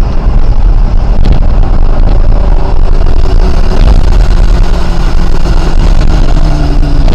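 Patrol car's engine and road noise at speed, heard from inside the cabin through a dashcam, with the engine note slowly falling in the second half.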